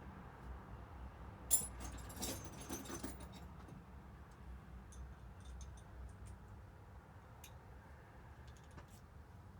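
Small metal parts and hand tools clinking and jingling: one sharp clink about a second and a half in, a cluster of jingling over the next second and a half, then scattered light clicks.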